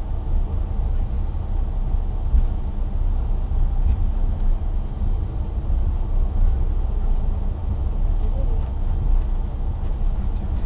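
Steady low rumble inside a moving vehicle's cabin.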